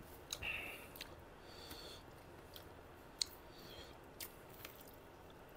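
Faint chewing and small mouth clicks of people eating with their hands, with one sharper click about three seconds in.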